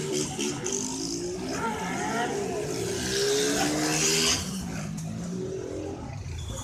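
Car engine revving hard at a car meet, its pitch gliding up and down, with a high hiss and tyre squeal over it; the sound drops off after about four seconds.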